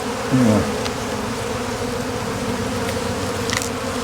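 Honeybees from an opened wild nest buzzing in a steady drone, with one louder buzz briefly sweeping down in pitch about half a second in.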